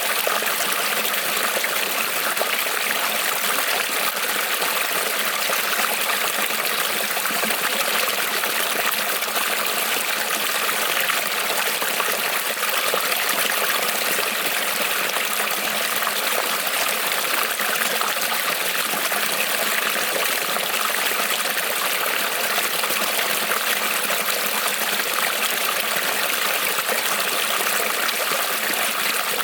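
Small creek rippling and trickling over stones, a steady unbroken babble of running water.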